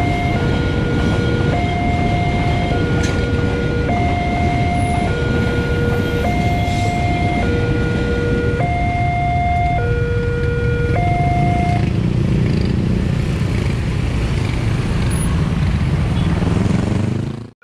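Railway level-crossing warning alarm sounding its two alternating electronic tones, low then high, switching about once a second, over a loud low rumble. The alarm stops about two-thirds of the way through while the rumble continues.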